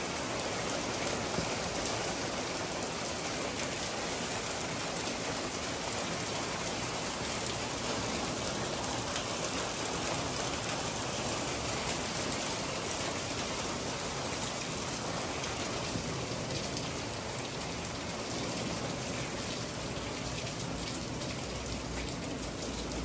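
Steady rain falling, easing a little over the last several seconds.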